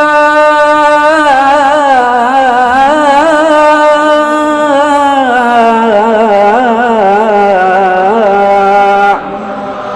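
A solo male voice singing a long, ornamented wordless melisma of an Arabic qasida. Held notes carry quick wavering turns, the line steps lower about five seconds in, and the voice breaks off about nine seconds in.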